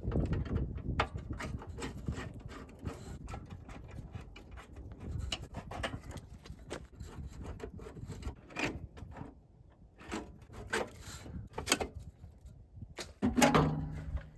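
Irregular clicks, knocks and rubbing of hand tools and parts being handled while working on a car's transmission, with a brief pitched sound near the end.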